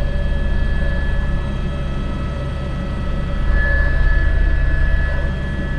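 Airbus H125 helicopter's single turbine engine and rotor running in flight, heard as a steady low drone with a thin high turbine whine that fades out briefly and returns.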